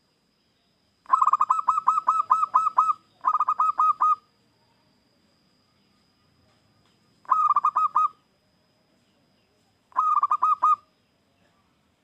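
Zebra dove cooing in four bursts of quick, evenly repeated notes: a long burst about a second in, a shorter one right after it, and two more in the second half.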